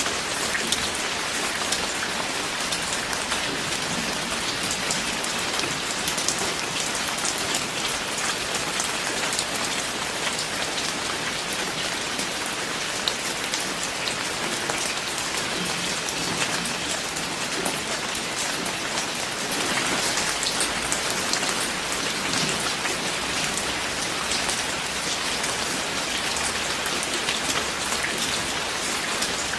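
Steady rain falling, an even hiss of drops with fine ticks of individual drops, swelling slightly about twenty seconds in.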